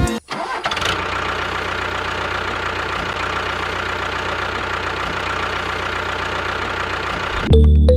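An engine idling steadily with an even, rapid chug. Music cuts off just after the start and comes back near the end.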